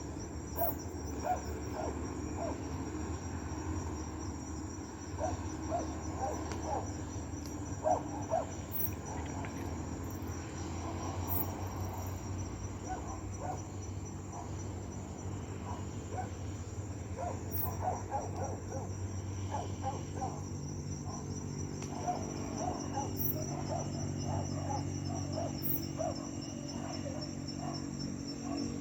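Crickets trilling steadily in a rapid, even pulse, with scattered short pops throughout.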